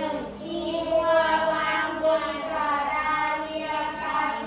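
A group of children singing together in unison, with long held notes that slide from one pitch to the next.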